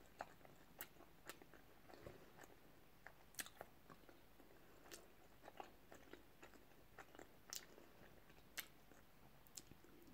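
Faint close-up chewing of sushi, with scattered soft mouth clicks at irregular intervals.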